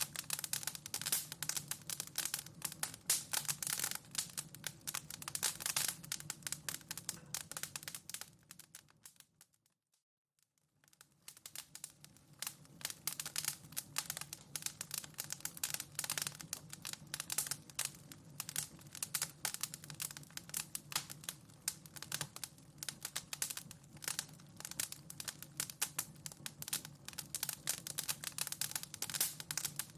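Wood fire in a fireplace crackling with dense, irregular pops and snaps over a low steady rumble. It fades out to silence about ten seconds in and fades back in a second or two later.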